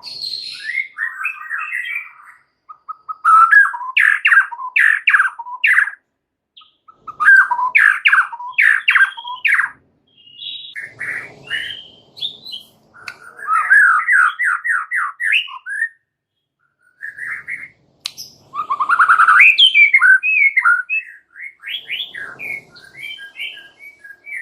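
White-rumped shama (murai batu) singing loudly in phrases of rapid repeated notes, each phrase two to three seconds long, separated by short pauses.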